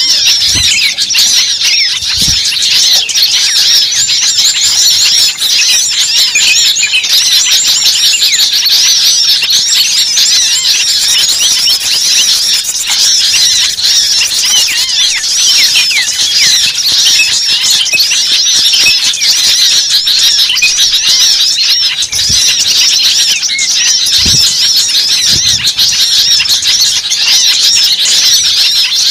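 A dense, frantic chorus of many small birds chirping and squeaking at once, with no let-up: a bird-lure recording of small songbirds such as spiderhunters and sunbirds in an alarmed 'ribut' frenzy. A few brief low thumps sound near the start and again about three-quarters of the way through.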